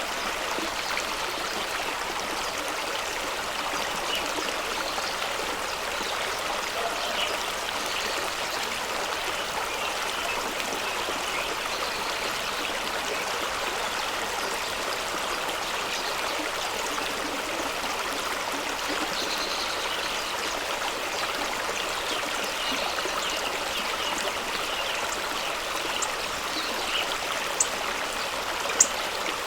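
Fast-flowing stream rushing and splashing over rocks in a steady, even wash of water noise, with a few sharp clicks near the end.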